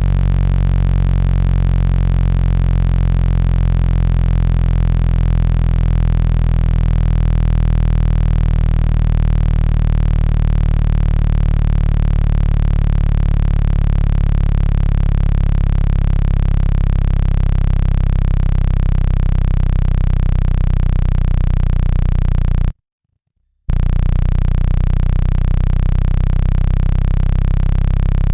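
Loud, steady, deep electronic tone built from several low pitches, the 165 Hz speaker-cleaning signal meant to vibrate water and dust out of a phone speaker. It cuts out for about a second near the end, then resumes.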